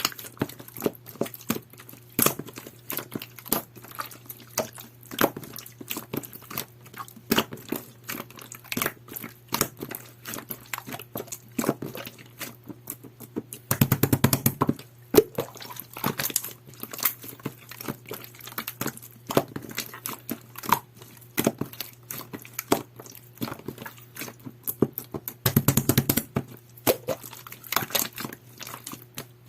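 Jelly-textured pearl slime being squished and pressed by hand, giving irregular sticky clicks and pops. About halfway and again near the end come denser runs of rapid crackling. A faint steady low hum sits underneath.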